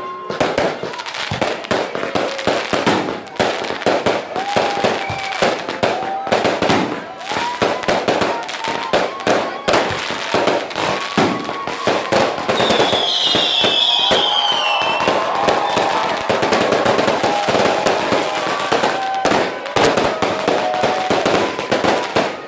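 Fireworks going off in rapid succession, a dense run of bangs and crackles, with people's voices calling out over them. A high falling whistle sounds about thirteen seconds in.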